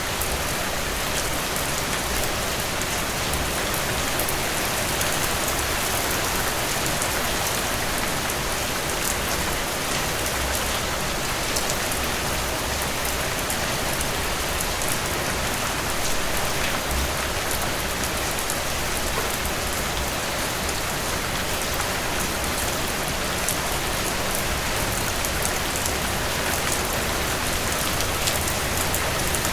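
Heavy, steady rain: a dense downpour hissing evenly, with the patter of drops striking a surface.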